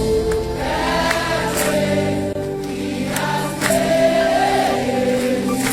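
A group of voices singing a gospel worship song together, with instrumental accompaniment.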